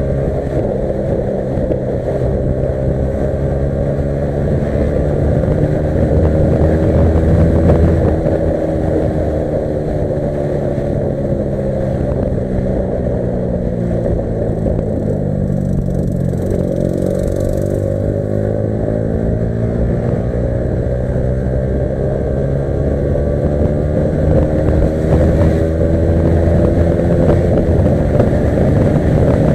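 Yamaha R15 V3's single-cylinder engine running under way. Its pitch sinks slowly through the middle as the bike eases off, then climbs steadily again in the second half as it picks up speed.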